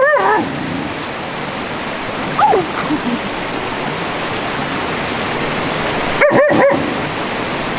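Steady rush of stream water, with a dog whining and yipping over it: a short cry at the start, a falling whine about two and a half seconds in, and a quick run of yips a little past six seconds.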